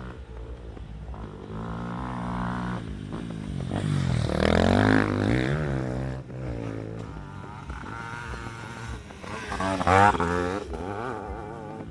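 Motocross dirt bike engines revving up and down in pitch as they ride the track, loudest about four to five seconds in and again at about ten seconds.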